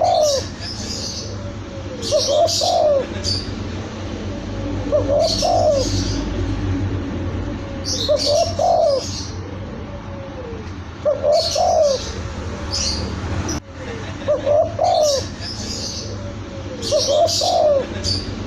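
Young spotted dove (tekukur) cooing, repeating its short coo phrase about every three seconds. High bird chirps sound alongside each phrase over a steady low hum.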